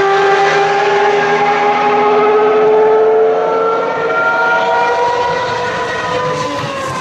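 Ferrari racing car's engine at high revs, held on the throttle with its pitch climbing slowly as it accelerates, then starting to drop right at the end as it passes.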